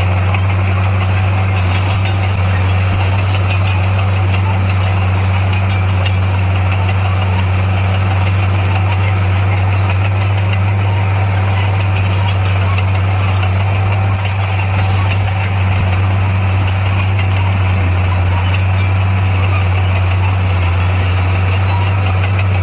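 Heavy diesel engine of road-construction machinery running steadily at a constant speed, a loud low drone with no revving.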